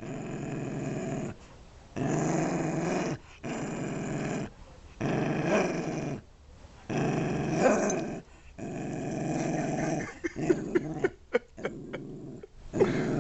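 Rat terrier growling in repeated low bouts of one to two seconds, broken by short pauses, guarding the brick he holds as his toy. Near the end a few short sharp clicks come before another growl.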